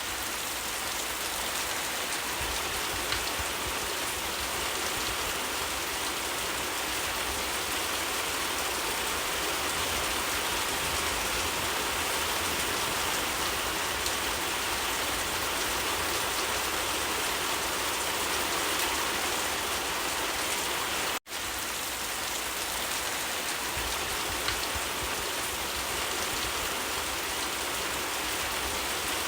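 Steady, dense rainfall, an even hiss of drops on surfaces. It cuts out for a split second about two-thirds of the way through, then resumes unchanged.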